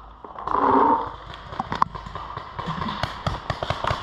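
Paintball markers firing: sharp pops, scattered at first, then coming about four or five a second. A short shout is heard about half a second in.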